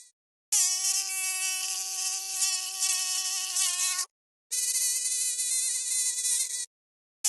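Mosquito whining in flight, heard in two separate passes: a lower buzz for about three and a half seconds, then after a short gap a higher-pitched buzz for about two seconds. Each starts and cuts off suddenly.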